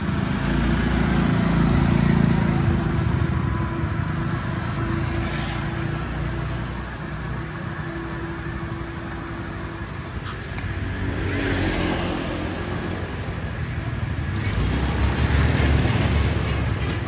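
A Yamaha Vixion's single-cylinder four-stroke motorcycle engine, built for racing, running and being revved, swelling louder about two seconds in and again near the end.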